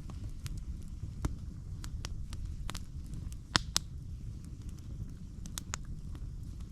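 Irregular crunching and crackling footsteps on a forest floor of dry leaves and twigs, with a sharper snap about three and a half seconds in, over a steady low wind rumble on the microphone.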